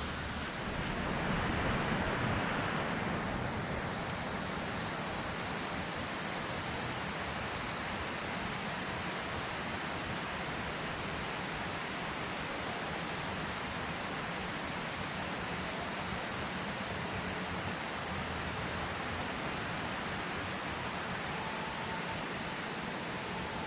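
Steady rushing of a river flowing out of a dam reservoir, with water falling from the dam, an even wash of water noise throughout.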